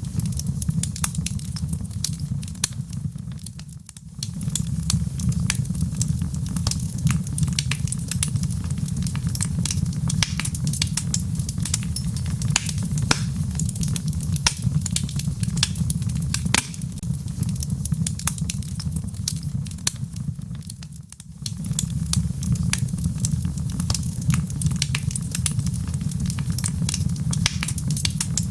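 Wood fire of burning logs in a fireplace, crackling with many sharp pops over a steady low rush. The sound dips down briefly twice before coming back.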